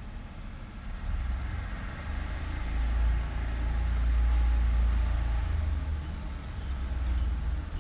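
Street traffic: a passing motor vehicle's low rumble swells about a second in, is loudest in the middle and eases off, then rises again near the end.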